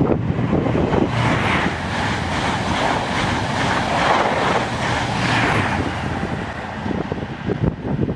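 High-speed express passenger train passing through the station at speed: a rushing roar of wheels on rail and displaced air that builds about a second in, peaks as the train goes by, and fades near the end.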